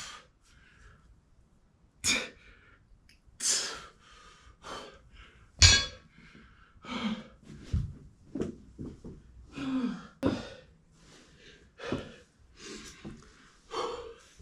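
A man breathing hard under exertion, with a forceful exhale or grunt about once a second, as he strains through a set of Romanian deadlifts.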